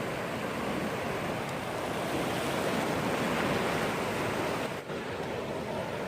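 Sea waves washing onto the shore: a steady rush that swells a little in the middle and dips briefly near the end.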